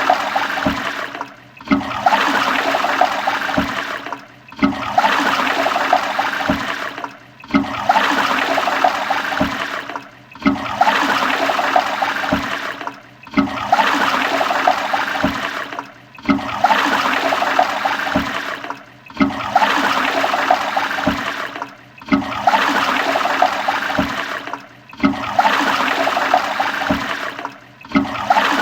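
Toilet flushing: a rush of water that starts suddenly and tapers off, then cuts out and starts again, repeating about every three seconds like a short flush played over and over.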